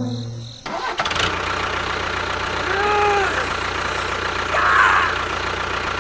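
A small engine-like motor running steadily with a hissing hum, starting under a second in as a music ending cuts off; a brief short tone sounds over it near the middle.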